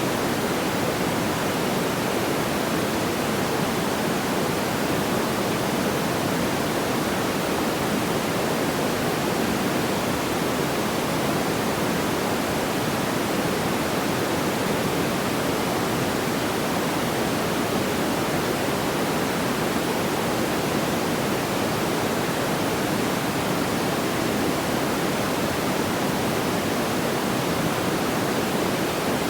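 Steady, even hiss of pink-noise-like sound with no distinct crackles or pops, unchanging throughout.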